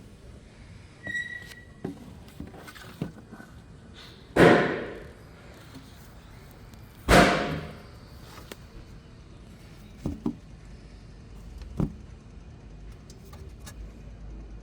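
Two loud thunks about three seconds apart, each dying away over about a second, with small clicks and knocks before and after them.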